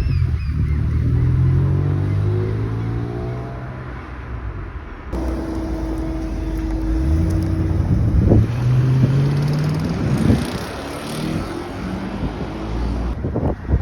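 Performance car engines revving and accelerating as cars pull away one after another. The engine pitch rises and falls, with an abrupt change about five seconds in.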